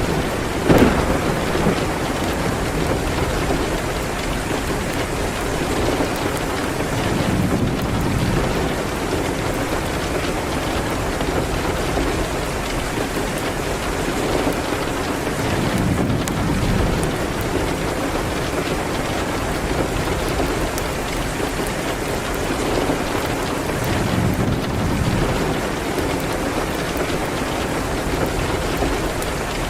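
Steady rain, with slow low rumbles swelling up every several seconds. There is one sharp crack about a second in.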